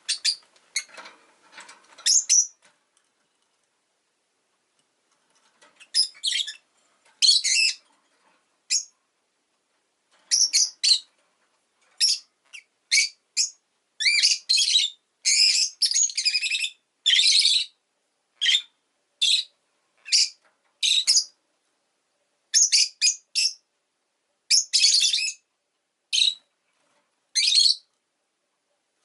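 Rosy-faced lovebird chirping: short, shrill chirps and squawks in irregular bursts. There is a pause of about three seconds near the start, and the calls come thick and fast in the second half.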